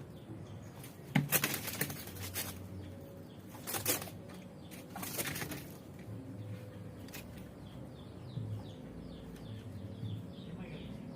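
Coucal flapping its wings in a few short bursts, with high chirps in quick succession near the end.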